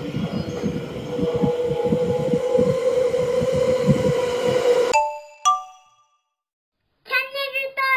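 JR Shonan-livery electric commuter train moving slowly through a rail yard: low, irregular rumbling and thumping under a steady hum, cut off abruptly about five seconds in. Two short chime-like tones follow, then near the end a high singing voice begins.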